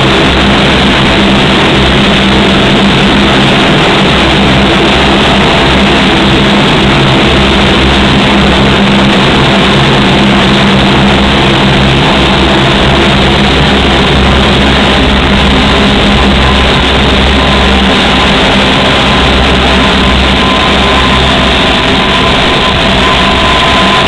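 Four-engine turboprops of a P-3C Orion patrol aircraft (Allison T56 engines) running, giving a very loud, steady drone with low humming tones. A higher steady whine joins about two-thirds of the way in.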